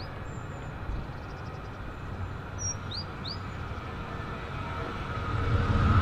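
A steady outdoor rumble with a few short bird chirps, then a train approaching and growing louder near the end, with a low rumble and a steady hum rising.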